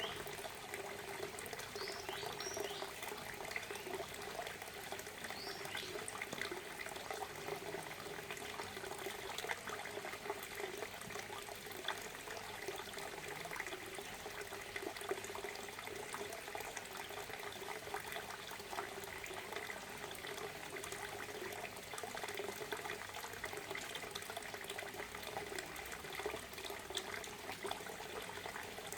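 Waterfall: water falling and splashing in a steady, continuous rush. A few faint short chirps sound in the first few seconds.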